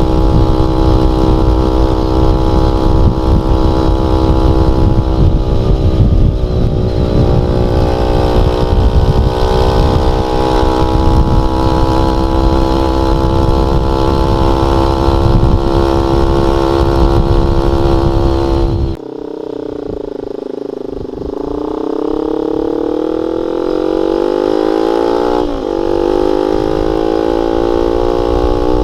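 Honda Sonic 150R's single-cylinder engine running through a CLD X Monster aftermarket exhaust with a half baffle, held at steady high revs under a heavy low rumble. About two-thirds in the throttle closes and the note drops suddenly, then it climbs again as the engine revs back up, with a short break in the rise near the end.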